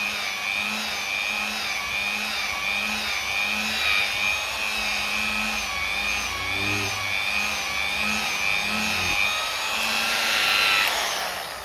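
Electric machine polisher running steadily with a wavering whine, then switched off and winding down near the end.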